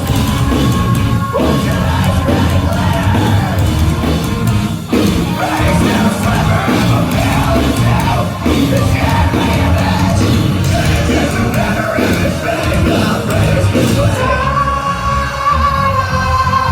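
A rock band playing loud live in concert, with drums and guitars under a vocalist who shouts and sings. Near the end the cymbals and heavy playing drop away, leaving a long held sung note over a lighter backing.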